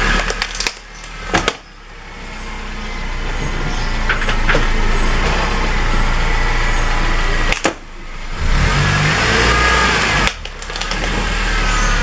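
A car's engine running and its tyres rolling over the ground, with a few sharp cracks about a second in. The sound drops out suddenly twice near the end.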